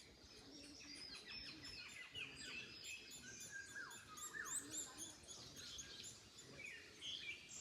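Several birds singing and calling at once, many quick overlapping chirps and short whistled phrases, with a couple of slower falling whistles in the middle, over a faint breeze.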